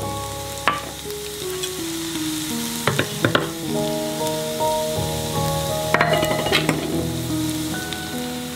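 Chopped garlic sizzling in hot olive oil in a frying pan, with a few sharp metal clinks from tongs and small steel bowls against the pan.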